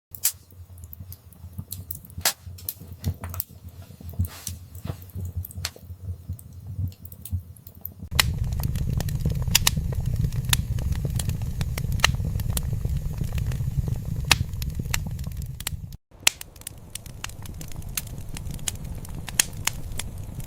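Wood fire in a fireplace crackling, with frequent sharp pops over a low rumble of flame. The rumble grows louder about eight seconds in, and the sound cuts out for an instant a few seconds before the end.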